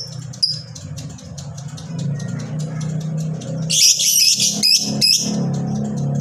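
Lovebird giving a few short shrill chirps, then a loud burst of rapid, harsh chattering lasting about a second and a half, partway through.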